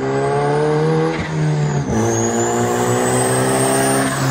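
Turbocharged LS VTEC four-cylinder in a 1999 Honda Civic accelerating hard. The revs climb, drop with a gear change about two seconds in, climb again, and ease off near the end. A high whine rises and falls with the revs.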